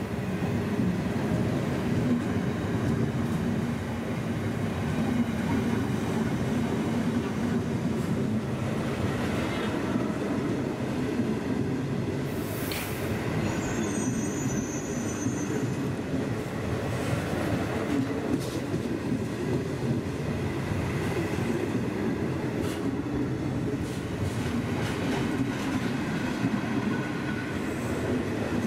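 Passenger train of stainless-steel coaches rolling past: a steady rumble of wheels on the rails, with a brief high-pitched wheel squeal a little under halfway through and repeated clicks of wheels over rail joints.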